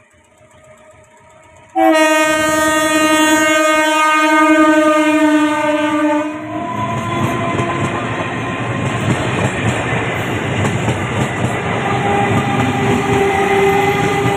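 EMU local train sounding one long horn blast starting about two seconds in and lasting about four seconds, its pitch sagging slightly at the end. Then loud, steady rumbling and wheel clatter as the train runs through.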